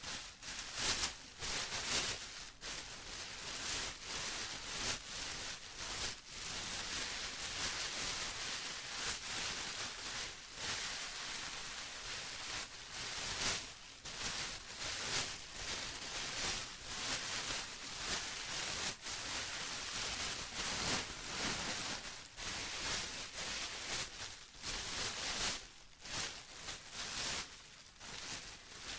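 Plastic rustling and crinkling in an irregular run of crackly swells with brief gaps.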